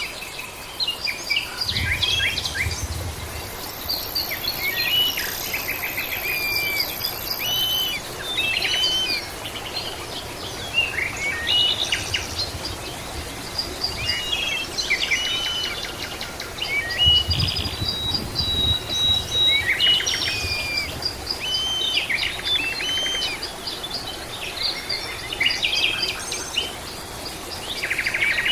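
Several songbirds chirping and singing over one another, short repeated calls and whistled phrases, over a steady outdoor background hiss. A low rumble comes twice, about two seconds in and again near the middle.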